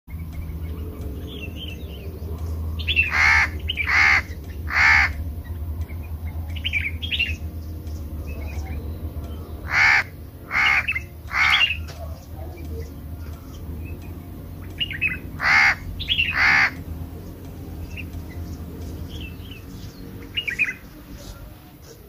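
Birds calling: loud, short, harsh calls in runs of two or three, with softer short chirps in between.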